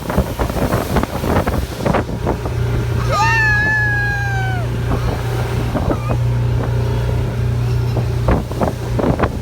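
Mercury 25 HP four-stroke outboard motor running steadily under way, with short sharp slaps of the inflatable boat's hull on the water and wind on the microphone. About three seconds in, a high call slides slightly down in pitch over about a second and a half.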